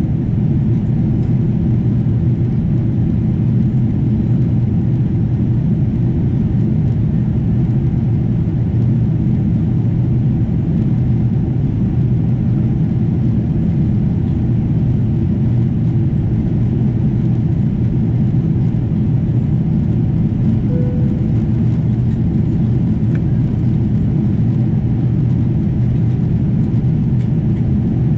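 Steady low rumble of a Boeing 777-200's engines and airflow heard inside the passenger cabin during the takeoff flight, even in level throughout.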